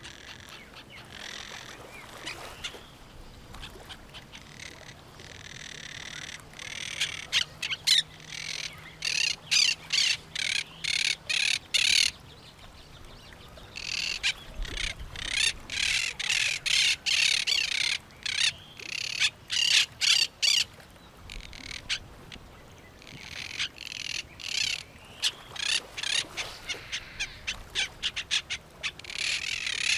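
Birds calling in loud, harsh squawks, repeated rapidly in three bouts of several seconds each with short lulls between them, over a soft outdoor background.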